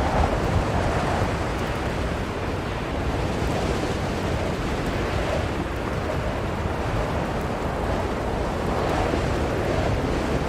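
Blizzard wind blowing steadily, a dense rushing noise that swells and eases in slow gusts.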